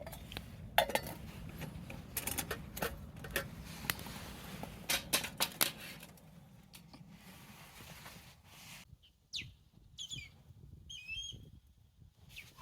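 A quick series of clicks and light knocks over the first six seconds, then a few short bird chirps.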